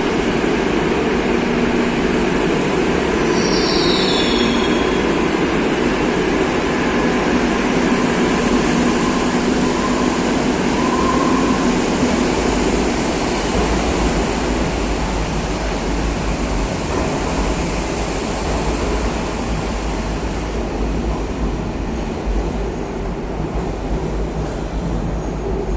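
Madrid Metro 2000B-series subway train running through the tunnel and station, a steady loud rumble with a brief high wheel squeal that drops in pitch about three to four seconds in. The rumble eases off slightly near the end.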